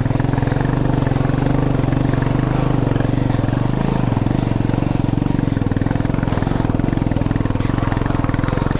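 Motorcycle engine running steadily close by, an even rapid pulse with little change in pitch.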